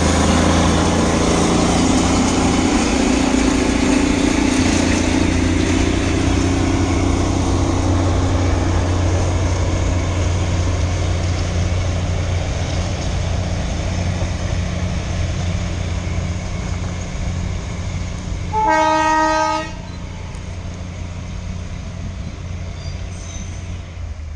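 Darjeeling Himalayan Railway narrow-gauge train's locomotive running with a steady low drone as it climbs past and slowly draws away. About three-quarters of the way in it gives one horn blast lasting about a second.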